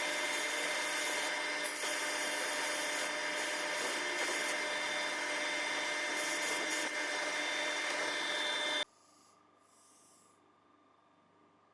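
Steady abrasive rubbing of a tool on the metal parts, with a steady hum under it, that stops abruptly about nine seconds in and leaves near silence.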